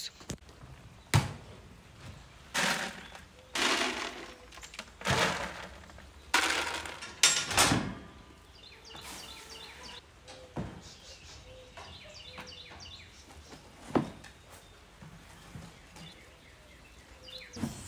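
Short rustling and scraping noises from work at horse stalls, then a couple of sharp knocks, the louder one about three-quarters of the way through; faint bird chirps can be heard in between.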